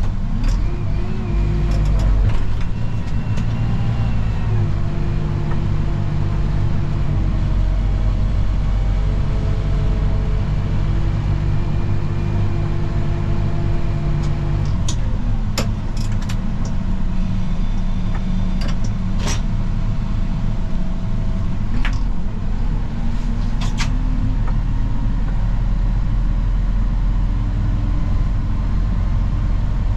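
Snow plow vehicle's engine running steadily under way, its pitch stepping up and down several times. A few sharp clicks or knocks come in the middle stretch.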